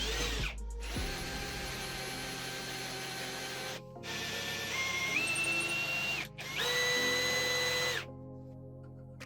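A power tool's electric motor, likely a drill, running in several short stretches. Its whine holds steady, then jumps to a higher pitch, and each stretch cuts off abruptly. Background music plays underneath.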